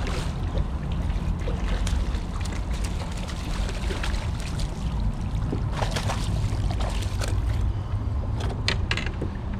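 Steady low rumble of wind and water at a fishing kayak, with scattered small clicks and splashes as a caught fish is handled, sharpest about six seconds in and again near the end.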